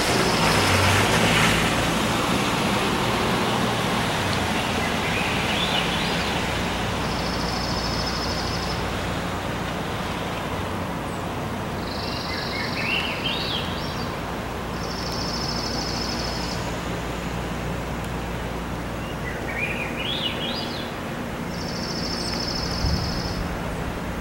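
Steady wind and road hiss with a bird calling over it: five high buzzy notes, each held about two seconds, and three quick runs of chirps that rise in pitch.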